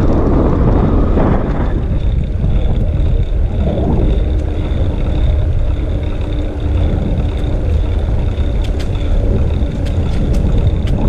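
Wind buffeting an action camera's microphone on a moving bicycle, a steady low rumble with road and tyre noise underneath, fuller for the first couple of seconds.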